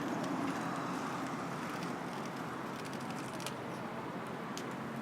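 City street ambience: a steady hum of traffic and passers-by, with a couple of sharp clicks about three and a half and four and a half seconds in.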